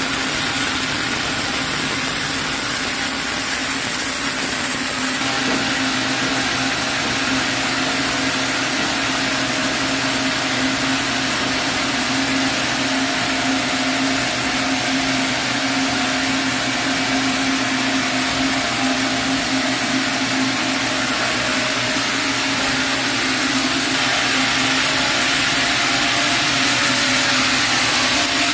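Sawmill saw running steadily while sawing a chinaberry log into boards: a constant machine hum with a strong hiss, a few more steady tones joining about five seconds in and the hiss growing a little louder near the end.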